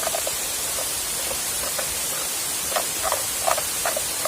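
Steady rushing of a waterfall, with a handful of short sounds about three seconds in.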